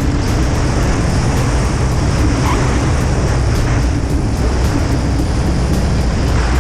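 Piper Colt light aircraft's engine and propeller droning steadily inside the cabin, with heavy wind and airframe noise, during landing.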